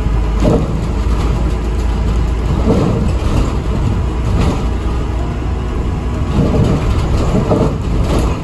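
Steady low rumble of an Alexander Dennis Enviro400 MMC double-decker bus's engine and running gear, heard from inside the moving bus, with swells in level every second or two.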